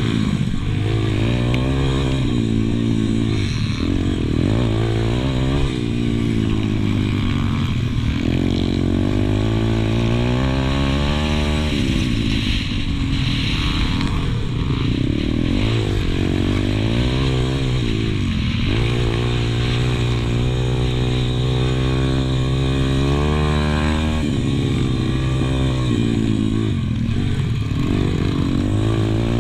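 Pit bike engine heard on board during a race, revving up and dropping back over and over as the rider accelerates out of corners and shuts off for the next.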